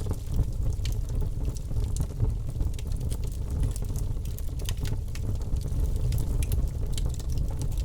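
Campfire burning, with a steady low rumble under frequent, irregular sharp crackles and pops from the burning wood.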